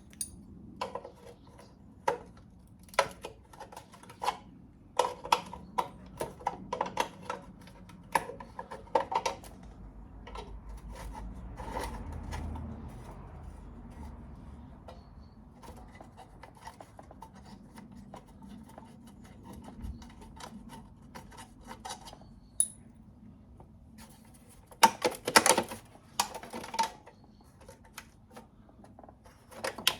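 Metal hand tools clicking and clinking against an engine's bolts and fittings as parts are undone, in irregular sharp taps with a dense flurry of clinks near the end.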